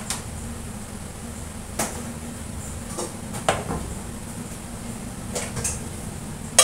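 Kitchen cookware and utensils being handled: a few scattered knocks and clinks, about six in all, over a steady low hum.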